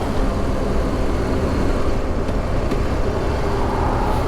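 Motorcycle being ridden along a road: a steady engine drone mixed with wind and road noise.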